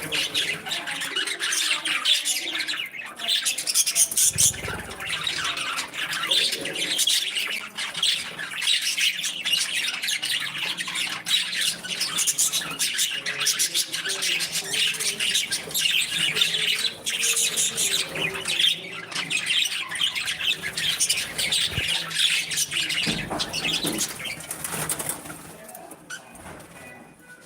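A flock of budgerigars chattering and chirping continuously, a dense stream of quick high twitters and warbles that thins out and quietens near the end.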